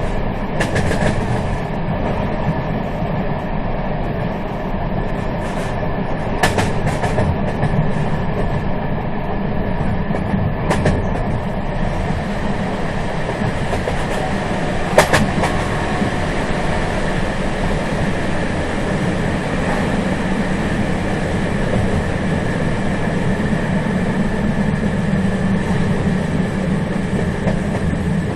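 Moving train running with a steady rumble and rattle, broken by a few sharp knocks, the loudest about halfway through.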